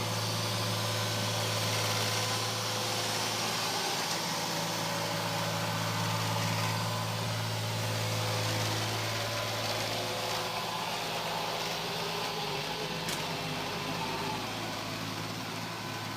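Neato Botvac D7 robot vacuum running, a steady motor hum under a wide suction hiss.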